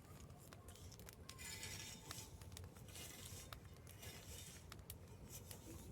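Wood bonfire crackling faintly: scattered sharp pops and snaps at irregular intervals over a soft hiss.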